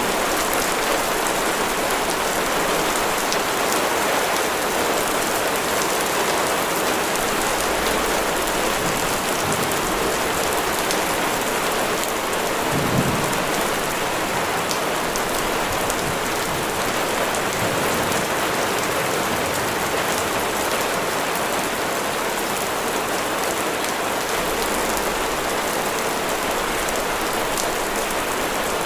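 Steady heavy rain falling, an even hiss with no let-up, with one brief low thump about halfway through.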